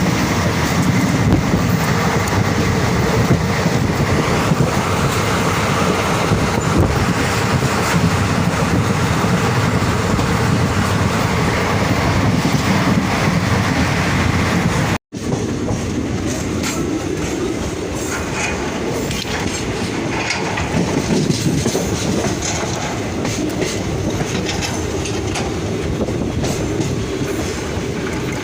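Passenger train running, with a steady rumble and clattering wheels on the rails as heard aboard. The sound cuts out briefly about halfway, then carries on.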